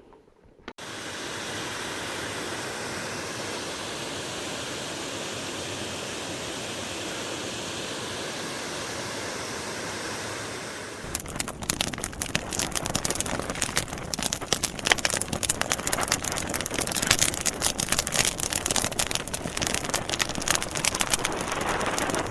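A steady, even hiss. About halfway through it gives way to burning wood logs crackling, with dense irregular pops and snaps.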